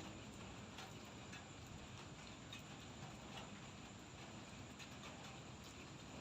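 Light drizzle falling: a faint steady hiss with scattered raindrops ticking irregularly, a few every second.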